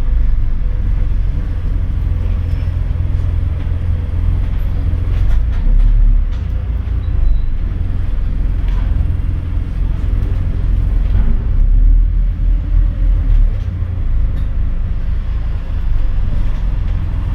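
Scania N230UD double-decker bus heard from on board, its five-cylinder diesel and the road making a steady, deep rumble, with a few light clicks.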